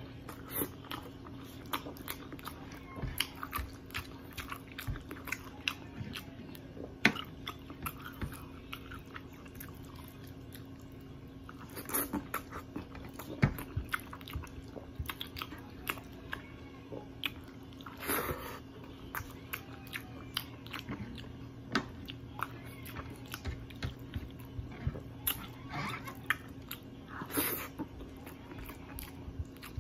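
A person chewing and smacking his lips on mouthfuls of rice and fried tilapia, with frequent short wet clicks and smacks over a steady low hum.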